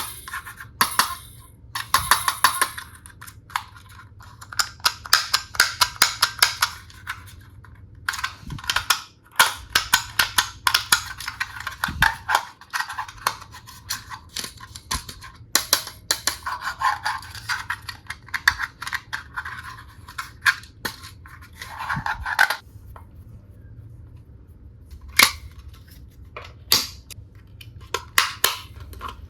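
Hard plastic toy tool pieces being handled, clicking and clattering against each other in dense runs with rattling between. After about 22 seconds it thins to a few sharp single clicks.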